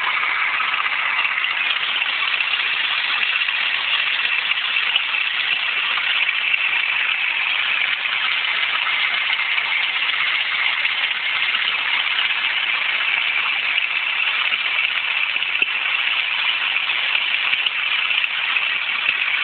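Astra car engine idling with a steady grinding noise, a fault the owner cannot pin down.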